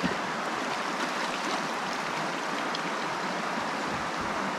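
River water rushing steadily past, a fast-flowing stretch of river.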